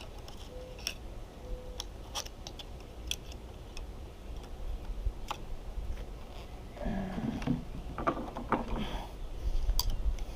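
Scattered small clicks and scrapes of a plastic-rivet pry tool working at a stuck retaining ear in the end of a watermaker membrane housing, the metal parts ticking as it catches.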